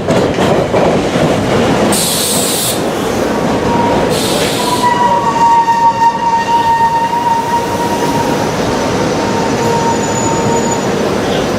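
Commuter train running past the platform with a loud, steady rumble of wheels on rail, two short hisses of air about two and four seconds in, then a long, steady high-pitched squeal from the running gear lasting several seconds.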